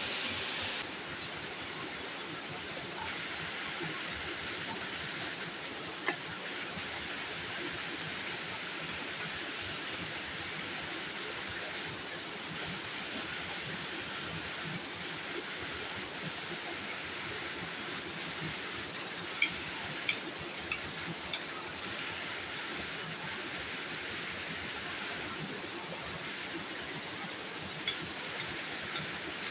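Heavy rain falling steadily, an even hiss, with a few sharper taps of drops about twenty seconds in and near the end.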